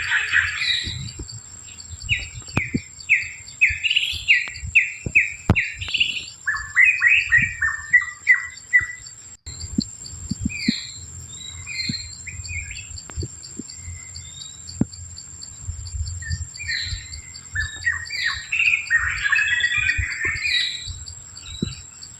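Birds calling: a series of short, repeated down-slurred notes about two a second, then a faster, lower run of notes, and a burst of busy chatter near the end.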